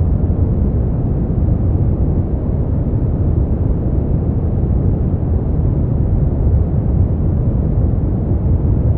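Steady generated sleep-aid noise, sold as white noise but deep and muffled: most of its energy is low, with no high hiss, and it does not change.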